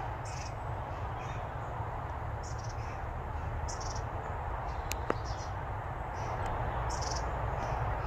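Small garden birds calling with short, high chirps every second or so over a steady low background rumble, with one sharp click about five seconds in.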